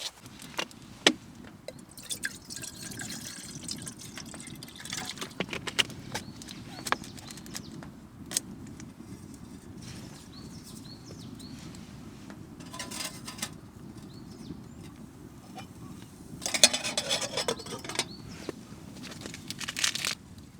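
Liquid pouring and sloshing in a few short spells over a steady low rumble, with scattered sharp clicks and knocks. The longest and loudest pour comes about three-quarters of the way through.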